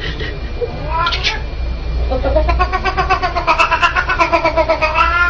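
A cat yowling: a short rising call about a second in, then a long, pulsing drawn-out yowl that rises in pitch at the end.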